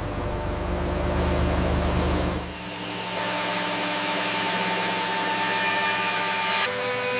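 Heavy machinery running: a deep rumble for the first two and a half seconds, then a steadier mechanical hum with a faint whine, which shifts slightly near the end.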